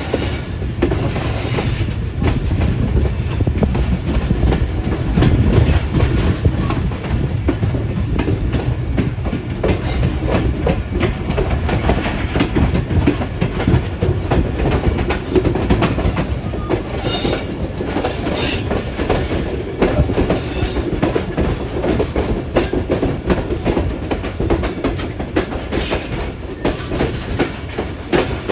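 Passenger train running along the track: a steady low rumble of wheels and carriages, with the clickety-clack and scattered knocks of the wheels over rail joints.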